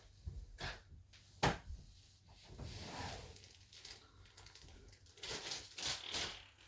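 Handling noises: a few sharp clicks and knocks, the loudest about one and a half seconds in, with a stretch of rustling around the middle.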